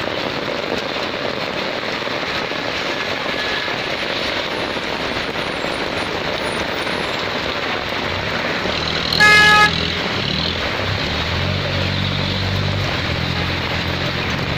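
Steady hiss of heavy monsoon rain, with a vehicle horn sounding one short blast about halfway through, the loudest sound. A vehicle engine hums low through the second half.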